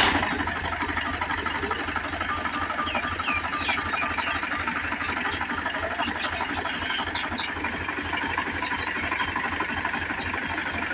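Al-Ghazi tractor's diesel engine idling steadily just after starting, with an even, fast-pulsing run.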